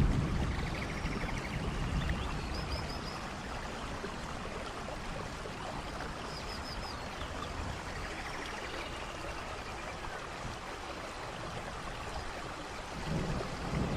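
Steady rushing of a waterfall's running water with rain, an even wash of noise. Faint short high chirps show up a few times, and a low rumble fades out in the first second and builds again near the end.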